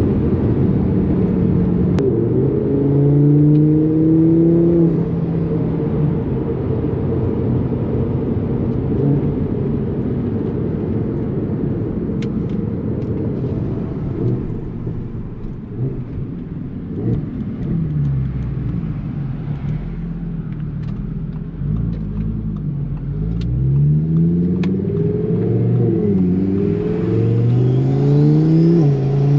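Twin-turbocharged Audi R8 V10 under hard acceleration, its engine note rising and then dropping back at each upshift. The shifts come in quick succession in the last dozen seconds, over steady wind and road noise.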